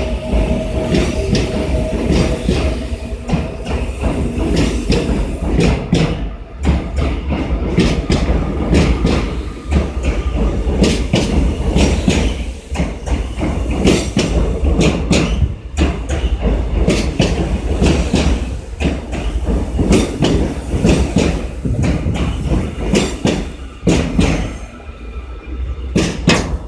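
Seoul Subway Line 4 train running on the rails, with a steady rumble, repeated clicking of the wheels over the track and some wheel squeal. The noise drops away near the end as the train slows.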